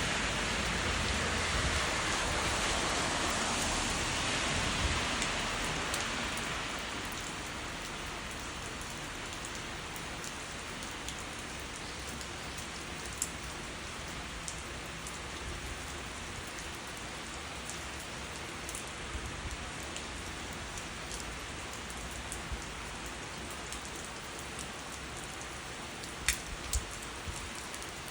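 Steady rain falling, louder for the first several seconds and then settling into an even, lighter patter, with a few sharper individual drops near the end.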